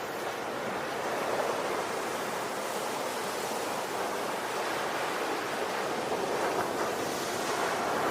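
Ocean waves washing on a shore: a continuous rushing surf that swells and eases gently.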